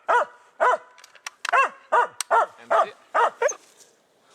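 Hunting dog barking repeatedly, about eight short barks at roughly two a second, stopping a little after three seconds in.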